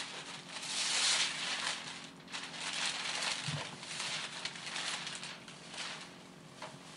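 Gift wrapping paper being ripped and crumpled as a present is unwrapped, in irregular surges, loudest about a second in.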